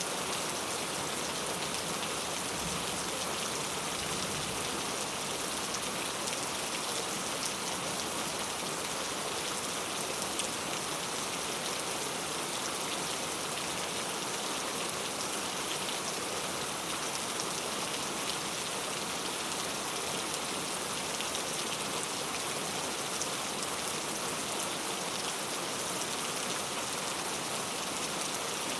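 Heavy rain falling steadily, a dense, even hiss of drops striking hard surfaces.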